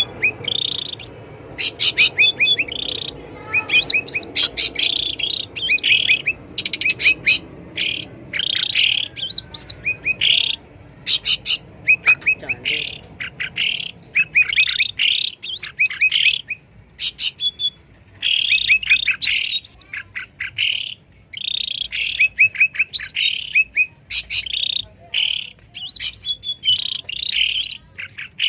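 Cucak ranting bulbul song: loud, noisy bursts of quick, sharp chirping notes, repeated over and over with short gaps between phrases.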